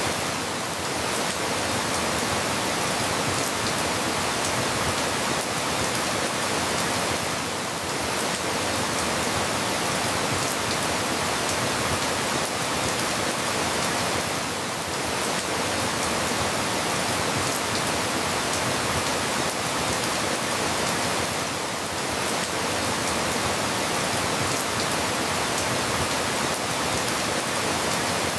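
Steady rain falling, a dense even hiss with a slight lull about every seven seconds.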